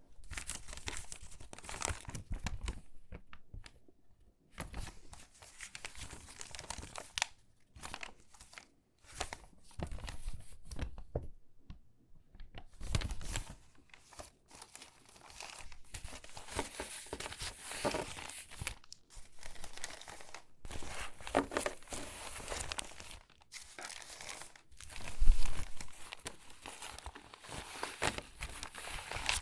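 Crinkly, water-damaged magazine pages being handled and sorted by hand: irregular rustling and crackling paper in bursts with short pauses, with a louder crackle about 25 seconds in.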